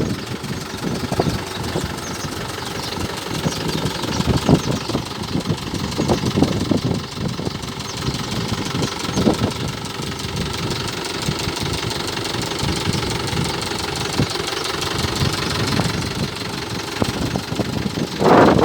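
Mahindra tractor's diesel engine running steadily at low revs.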